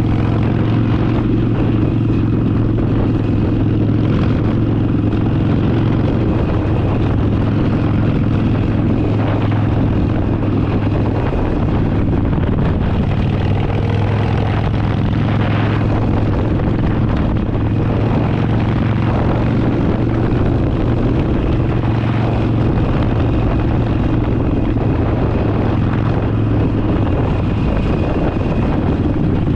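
Harley-Davidson Forty-Eight's 1200 cc V-twin engine running at a steady cruising speed, its low drone unchanging, mixed with the rush of wind past the rider.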